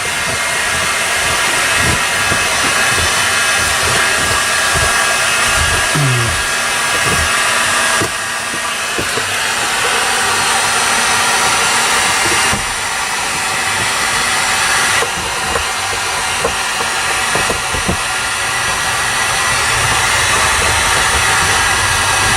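Heat gun blowing steadily, warming sound deadener sheets to soften them for laying down. Its hiss changes tone abruptly a few times, with scattered low knocks underneath.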